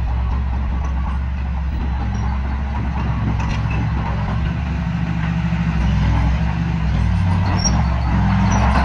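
Diesel engine of heavy earthmoving machinery running steadily, louder from about six seconds in.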